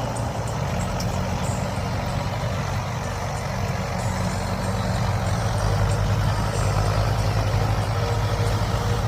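Mahindra 575 tractor's diesel engine running steadily, growing somewhat louder about halfway through.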